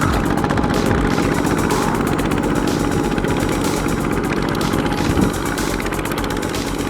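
Small two-wheel hand tractor engine running steadily with a fast, even thudding pulse.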